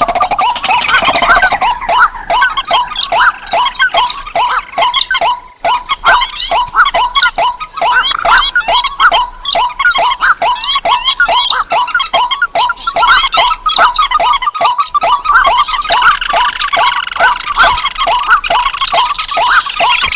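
Recorded lure calls of rice-field rails and crakes: a long, loud string of short repeated calls, about three a second, with a second bird's calls laid over them near the end.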